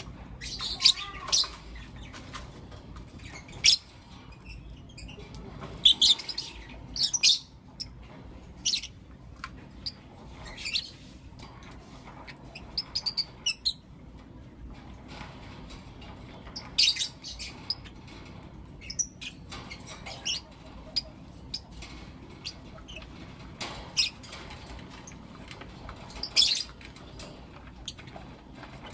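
A pair of lovebirds giving short, sharp chirps and calls at irregular intervals, with a quick run of chirps about halfway through.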